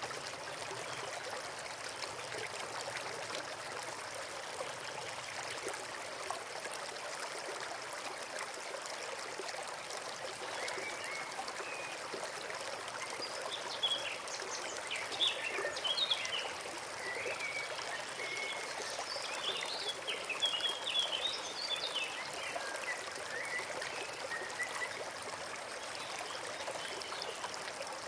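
Forest brook running steadily over stones, with a bird chirping in short quick calls through the middle.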